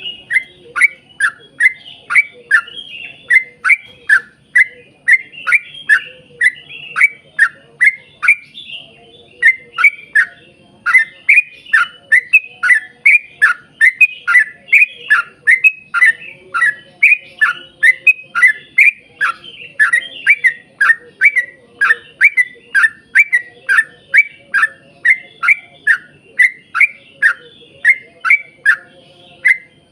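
Yellow-vented bulbul (trucuk) calling in a long unbroken run of short, loud notes that sweep downward in pitch, about two a second, with a brief pause around nine seconds in.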